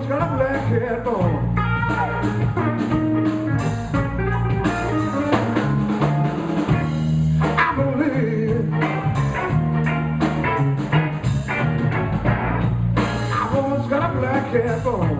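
Live blues band playing an instrumental passage: bending guitar lead lines over steady bass and a drum kit.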